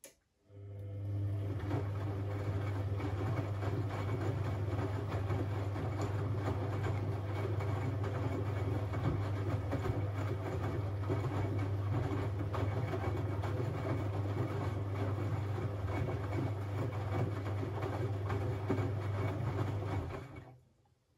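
Siemens Siwamat 6143 washing machine running in a boil wash: a steady low mechanical hum with a rough, churning texture that starts about half a second in, holds for about twenty seconds and then cuts off.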